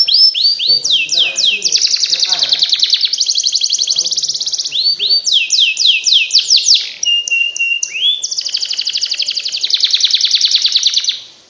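Domestic canary singing a long, fast song: runs of downward-sweeping whistled notes alternating with rapid trills and a few short held tones, cutting off abruptly near the end.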